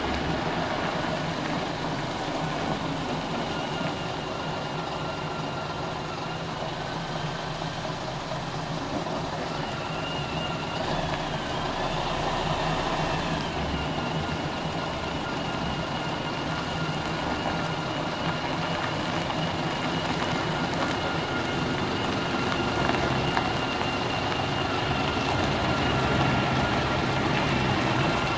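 Scania CR112 bus's diesel engine running steadily while the bus moves, with a faint high whine over the engine note that bends up and back down briefly about halfway through.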